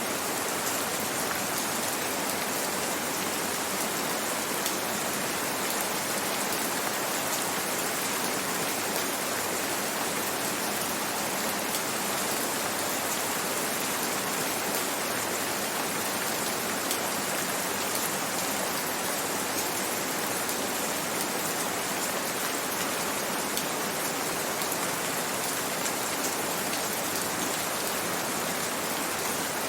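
Steady, even rain falling on surfaces, with fine drop patter.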